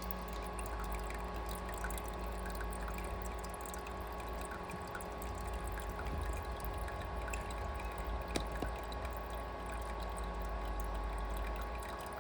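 Water trickling steadily, with a steady hum underneath and a few faint ticks.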